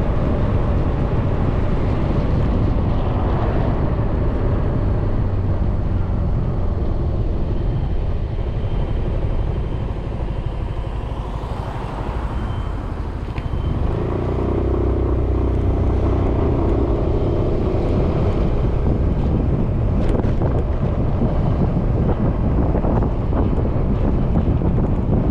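Riding noise from a 2020 Suzuki Burgman 400 scooter on the move: wind rushing over the mounted GoPro's microphone over the steady drone of the engine and tyres. A steadier hum joins for a few seconds just past the middle.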